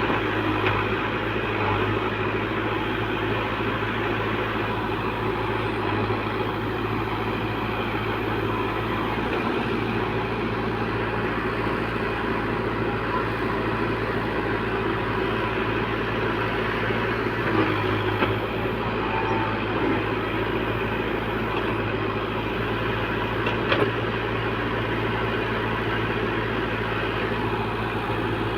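Tractor engine running steadily at a constant speed, with a couple of faint short knocks partway through.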